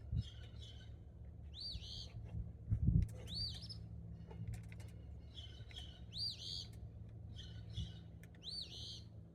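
A small songbird singing, repeating a short phrase of quick, arched high notes every couple of seconds. A steady low hum runs underneath, with one low thump about three seconds in.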